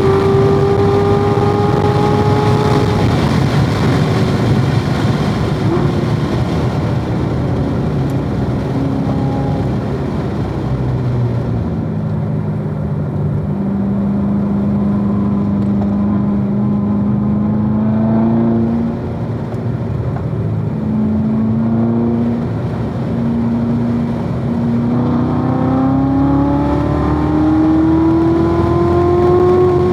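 2016 Corvette Z06's supercharged 6.2-litre V8 being driven hard on track. Engine pitch climbs for the first few seconds and then drops away. A long stretch of steadier running follows, with the pitch breaking and stepping at gear changes, then it climbs steadily again over the last several seconds.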